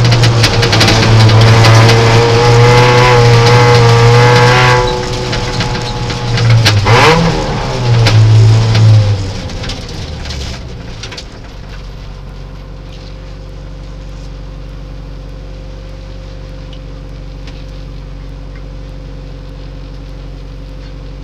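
Peugeot 309 rally car's engine heard from inside the cabin. It runs loud under power for several seconds, gives a quick rev about seven seconds in and another loud burst just after. It then drops away around ten to eleven seconds and settles to a steady, much quieter idle.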